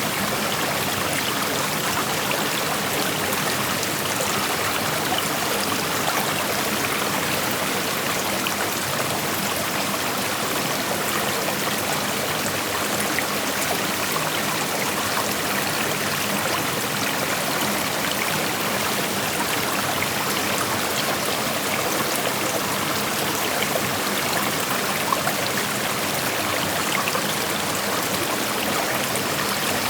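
A creek's water flowing and rushing over rocks in a steady, even wash of noise, with small trickles and splashes in it.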